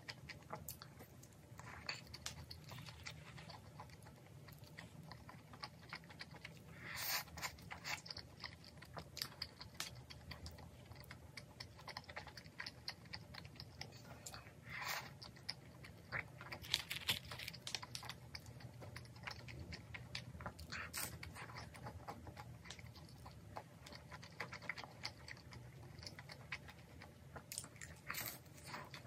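Close-up chewing and crunching of deep-fried battered snacks (twigim) coated in tteokbokki sauce, with a louder crisp bite every few seconds among quieter chewing clicks.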